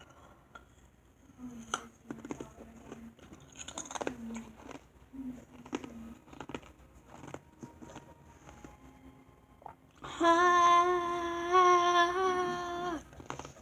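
Ice cubes being chewed and crunched between the teeth, a string of sharp, irregular cracks. Near the end comes a steady hummed, closed-mouth "mmm" lasting about three seconds.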